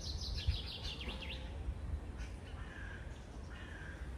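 Birds chirping outdoors: a fast, high twittering series in the first second and a half, then a few short whistled notes, over a steady low rumble.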